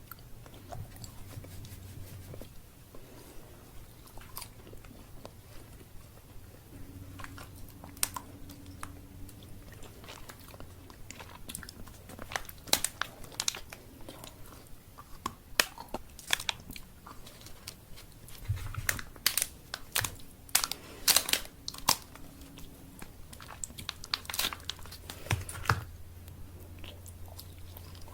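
Close-miked chewing and biting of chocolate candy, with many sharp crunches, thickest in the middle stretch, over a low steady hum.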